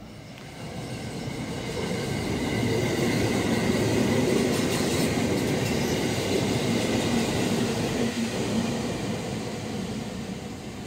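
JR West 223 series 2000-subseries electric train passing through the station out of service, its wheels rumbling on the rails as it comes near, peaks and then fades away, with a steady high whine over the rumble.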